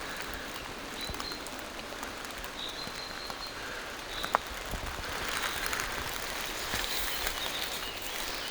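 Steady rain falling through forest trees, with scattered drops ticking on nearby surfaces and one sharper drop about four seconds in. A distant bird gives a few thin, high calls in the first half.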